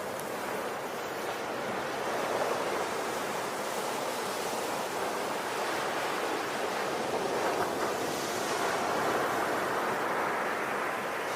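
Ocean surf: a continuous rush of waves washing in, swelling and easing a little in loudness.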